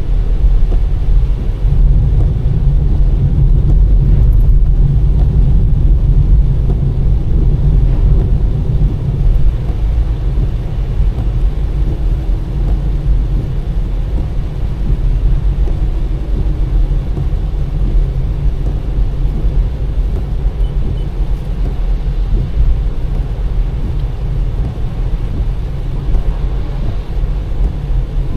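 Car driving on a rain-wet road: a steady low rumble of engine and tyre noise, without letup.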